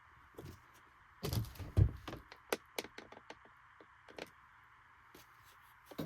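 A quick run of knocks and clicks, the loudest about two seconds in, over a faint steady hiss, with one more knock at the very end.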